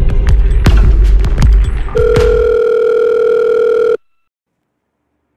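Dark, throbbing film score with a deep pulse and sharp clicks fades out in the first half. About two seconds in, a steady electronic telephone tone begins, holds for two seconds and cuts off abruptly into dead silence. It comes back right at the end, like a phone line tone sounding in on-off cycles.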